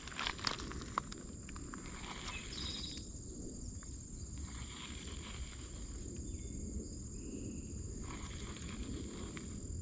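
Insects trilling in one steady high tone over a low, even rush of creek water, with a few sharp clicks in the first second.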